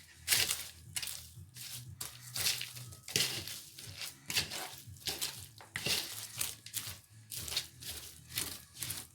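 Crisp material being crushed and crinkled by hand in a series of rustling, crunching bursts, about one a second.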